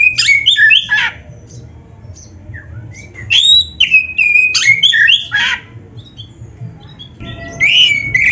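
Oriental magpie-robin (kacer) singing a loud, varied song of whistled and harsh phrases. It comes in three bursts: at the start, from about three to five and a half seconds in, and again near the end.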